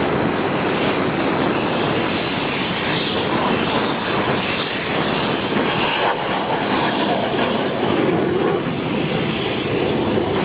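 Jet noise from an L-15 advanced jet trainer's twin turbofan engines in a flying display: a loud, steady rush with no clear rise or fall.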